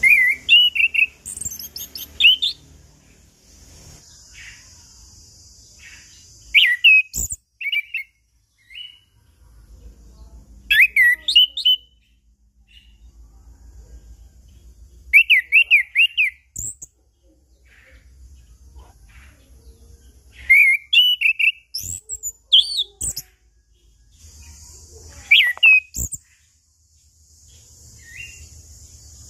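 Orange-headed thrush (anis kembang) singing loud, open-voiced song in short bursts of quick whistled notes that rise and fall, with pauses of a few seconds between phrases.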